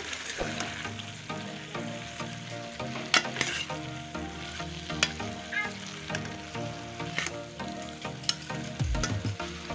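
Potatoes and cauliflower sizzling as they fry in a pan while a metal spoon stirs them, with a handful of sharp scrapes and knocks of the spoon against the pan.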